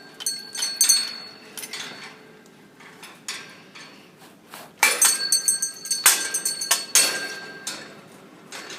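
Small metal bells on a pet bird's toy jingling and clinking as the bird knocks them about, in two bouts: one at the start and a longer, louder one about five seconds in.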